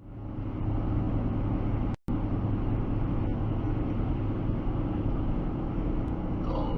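Steady low rumble of a moving vehicle's engine and road noise, starting abruptly, with a brief dropout about two seconds in.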